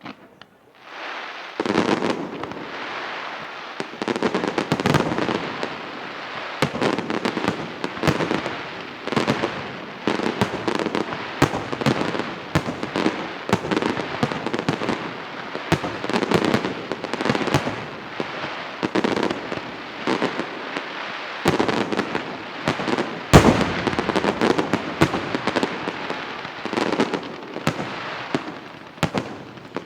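Fireworks display finale of aerial shells bursting in rapid succession: a dense, continuous wash of bursts studded with many sharp bangs. It builds up about a second in, and the single loudest bang comes about three quarters of the way through.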